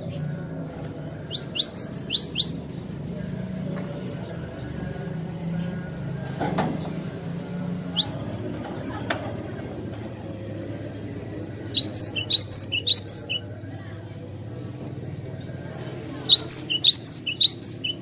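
Glatik batu (cinereous tit) singing: three quick bursts of sharp, high notes, each about a second long, with a couple of single notes in between.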